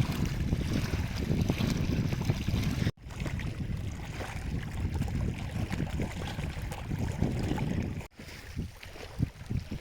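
Wind buffeting the microphone: a gusty low rumble that cuts out abruptly twice, about three seconds in and again about eight seconds in.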